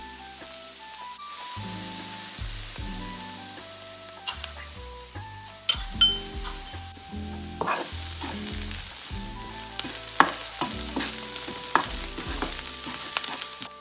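Diced onion, shallots and chilli sizzling in butter in a non-stick frying pan, stirred with a metal spoon. A couple of sharp clinks about six seconds in as the spoon taps the ceramic bowl while lemon zest is scraped into the pan, and scattered scrapes and taps of the spoon against the pan.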